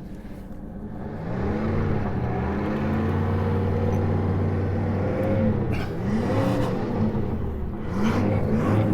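A car engine revving. Its pitch climbs about a second in and holds high for several seconds, then dips and rises and falls several times near the end.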